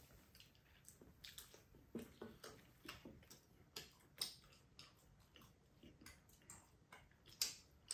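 Pizza being chewed: faint, irregular clicks and smacks of mouths eating, a few a second, with one louder click near the end.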